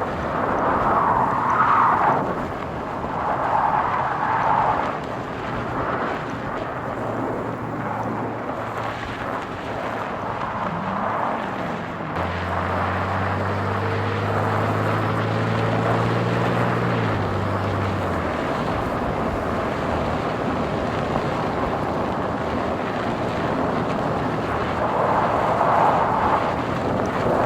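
Car driving along a road: steady tyre and engine noise, with an engine hum standing out for several seconds about halfway through before dropping away.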